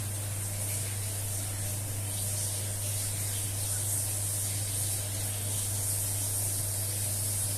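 Steady high, airy hiss over a constant low electrical hum.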